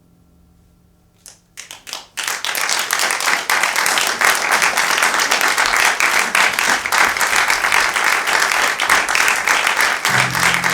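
Audience applauding: a few scattered claps about a second in, then full applause from about two seconds in that carries on steadily. Guitar music comes in near the end.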